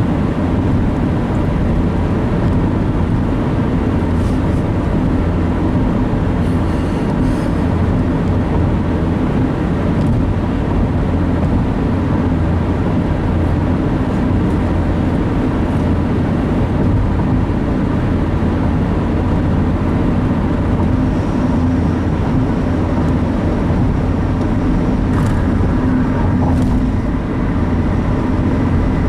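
Steady engine and road noise of a car driving at a constant speed, heard from inside the cabin.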